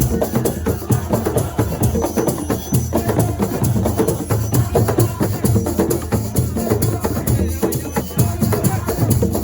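Senegalese assiko percussion music: a dense, fast beat of drums and clacking percussion strikes, going on steadily.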